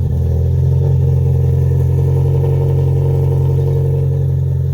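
Cammed Vauxhall Corsa C SRi 1.8 four-cylinder engine, de-catted and on a Piper exhaust, idling loudly and steadily seconds after a cold start.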